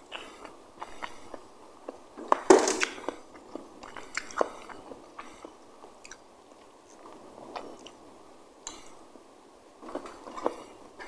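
Close-miked chewing and small mouth clicks of a person eating, with a sharp knock and a short, louder noisy burst about two and a half seconds in.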